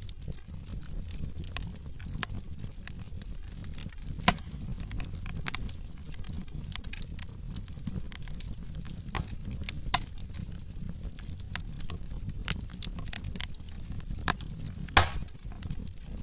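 Wood fire burning in a fireplace: a steady low rumble of flames with frequent crackles and pops from the burning logs, the sharpest snaps about four seconds in, around ten seconds and near the end.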